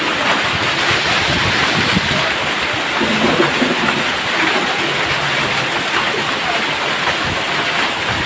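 Heavy rain pouring down: a steady, dense rushing hiss with many small patters of drops striking a surface.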